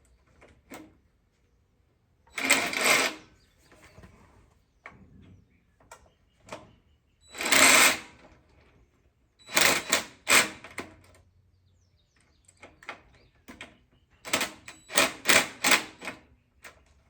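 Ratchet wrench tightening a nut on the tiller's engine mounting bolts, clicking rapidly in four short bursts of strokes.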